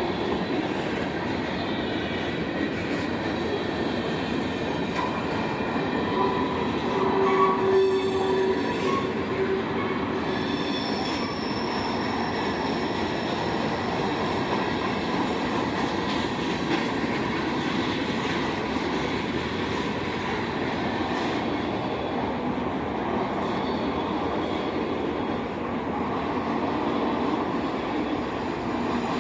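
Railroad cars rolling steadily past on the track, with brief squeals from the wheels, one thin high squeal about eleven seconds in.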